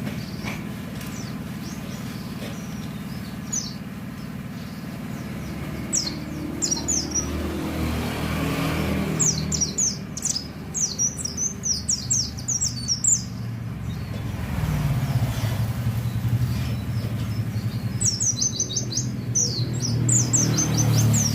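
A white-eye (pleci) sings in bursts of rapid, high twittering chirps, with the longest run in the middle and another near the end. Underneath is a steady low rumble of road traffic that swells twice as vehicles pass.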